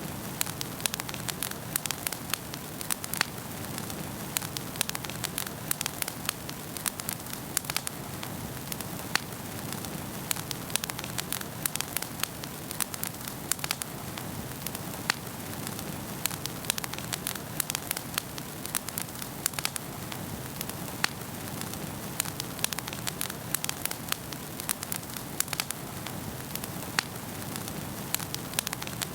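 Wood fire burning in a fireplace, with many sharp, irregular crackles and pops over a steady low rush of the flames.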